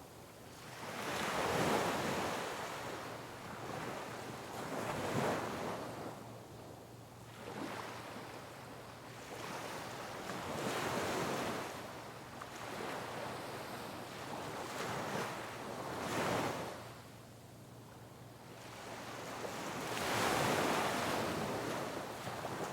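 Sea waves breaking on rocks, about six surges of rushing water, each swelling and falling away, the loudest near the end, with a steady wash between them.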